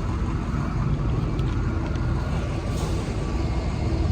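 Box truck engine running with a steady low rumble.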